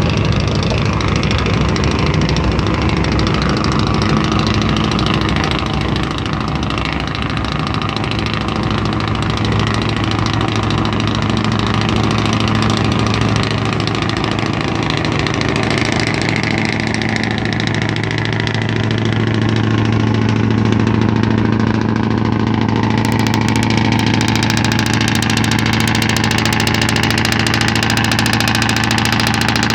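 Scania truck's diesel engine running steadily at a low, even speed, close up.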